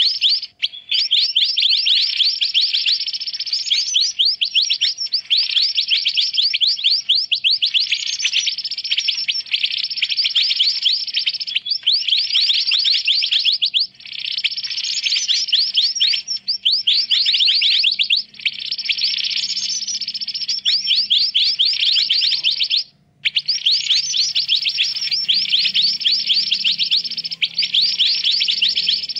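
Recorded mantenan bird calls used as a trapping lure: busy, rapid high chirps repeated in phrases of one to two seconds with short gaps, dropping out briefly about three quarters of the way through.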